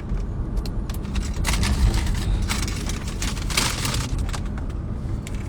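Steady low rumble of a car in motion, heard from inside the cabin. From about a second and a half in to about four seconds there is a stretch of crackling, scratchy noise.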